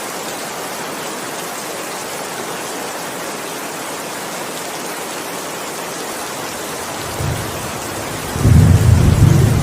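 Steady heavy rain hissing, with a thunder rumble starting about seven seconds in and swelling loud near the end.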